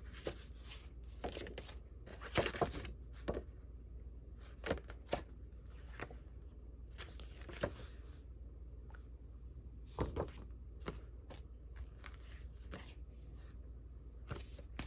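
Old paper cards being handled and laid down: scattered light rustles and soft taps, a few at a time, over a faint steady low hum.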